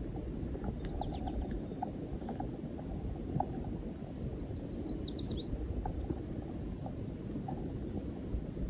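A songbird sings one short, quick trill of high notes, each sweeping downward, about four seconds in, with a few fainter chirps earlier. Low steady outdoor rumble underneath.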